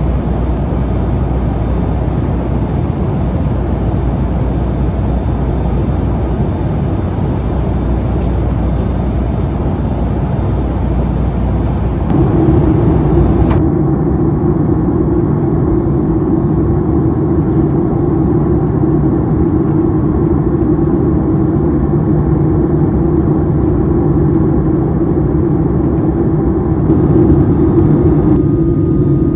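Steady jet engine and airflow noise heard from inside the cabin of a Boeing 757-200 airliner. The tone shifts abruptly about twelve seconds in, with the high hiss dropping away a moment later.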